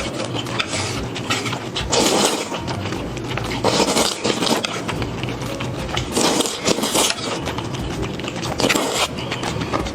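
Close-miked eating of saucy noodles: wet chewing and slurping, with a louder mouthful about every two seconds.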